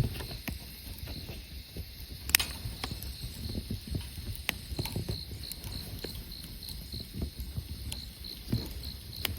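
Wood campfire crackling, with a few sharp pops, while insects chirp steadily in a high, even pulse about three times a second.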